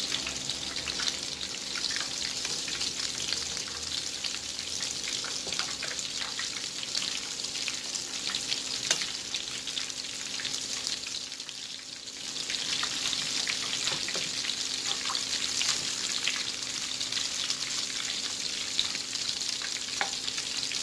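Dorito-coated chicken wings deep-frying in hot oil: a steady crackling sizzle with scattered pops, which dips briefly about halfway through before picking up again.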